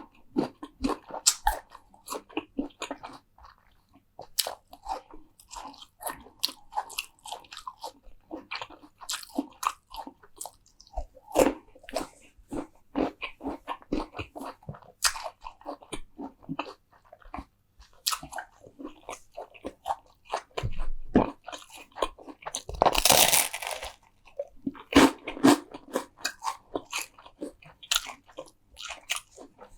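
Close-miked eating: crisp food bitten and chewed in a run of short, sharp crunches, with one louder, longer crunch lasting about a second about three-quarters of the way through.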